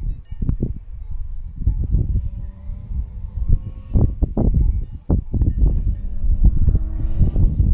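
Wind buffeting the microphone in irregular gusts, with a steady high-pitched insect trill running underneath.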